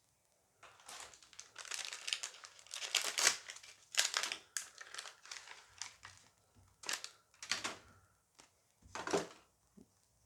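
Crinkling of a Dice Masters booster pack wrapper being torn open and handled, in irregular rustling bursts that are loudest a few seconds in and die away near the end.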